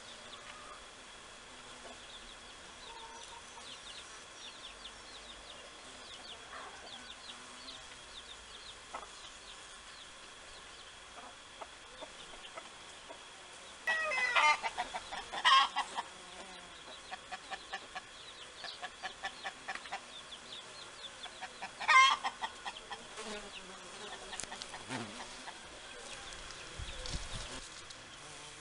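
Bird calls: two loud runs of rapid repeated calls, one about halfway through and another a few seconds later, with fainter calls in between.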